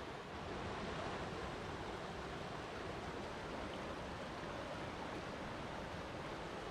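Flowing water rushing steadily, an even hiss without any distinct splashes.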